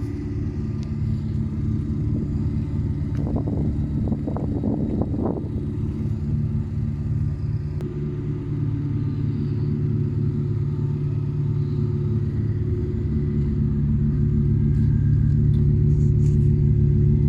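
Opel Astra with a loud aftermarket exhaust running, a deep steady engine drone that grows gradually louder over the second half. A short cluster of higher-pitched sounds rises over the drone a few seconds in.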